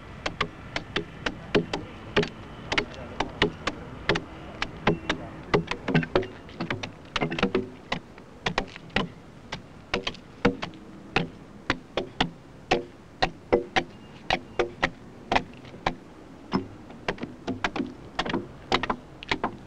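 A carpenter's broad hewing axe chops into an oak log in quick, sharp strokes, about two or three a second, as the side face is dressed smooth.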